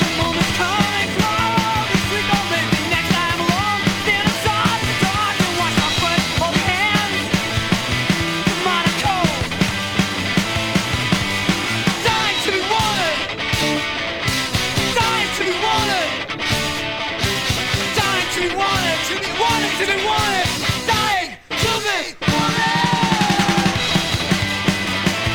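Loud rock song with sung and yelled vocals over drum kit and guitar, with a steady beat. The music drops out briefly for two short gaps about three-quarters of the way through, then comes back in.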